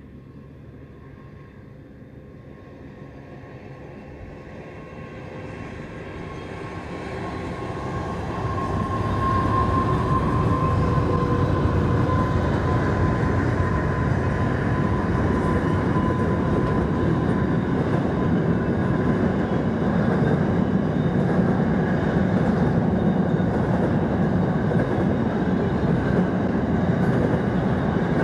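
Freight train approaching behind two Pacific National diesel locomotives, growing louder over the first ten seconds. A long rake of mostly empty flat wagons then rolls steadily past with continuous wheel and rail noise.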